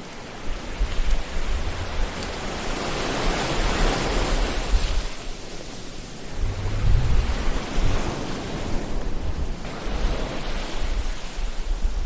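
Ocean waves washing ashore as a continuous hiss of surf, swelling to one peak about four seconds in and another around seven seconds, with a low rumble underneath that comes and goes.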